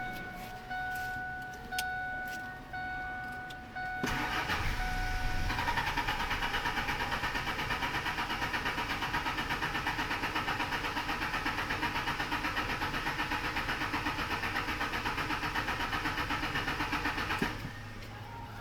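A 2000 Ford F-150's starter cranks the engine steadily with an even, pulsing rhythm for about thirteen seconds, for a scan-tool relative compression test, and stops near the end. Before the cranking, an electronic chime repeats for the first few seconds.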